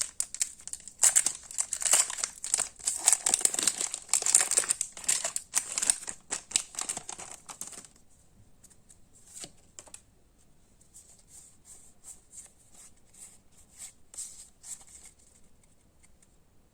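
Plastic-foil Pokémon card booster pack wrapper crinkling and tearing as it is opened, loud and continuous for about eight seconds. Then it gives way to faint, scattered ticks of cards being handled.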